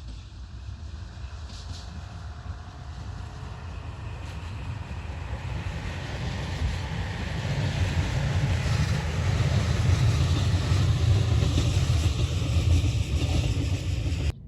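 A train approaching on the railway, its low rumble and wheel-on-rail noise growing steadily louder, loudest near the end.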